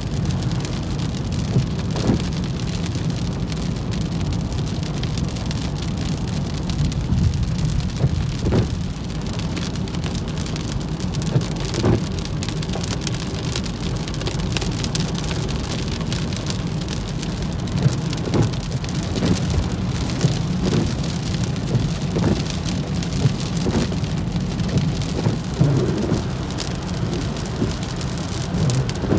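Heavy rain hitting a car's windshield and roof, heard from inside the moving car, with scattered sharper drop hits over a steady low rumble of tyres on the wet freeway.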